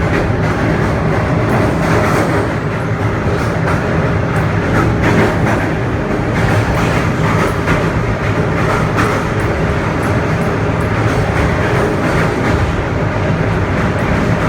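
Passenger train running along the track: a steady rumble with frequent clicks of the wheels over rail joints.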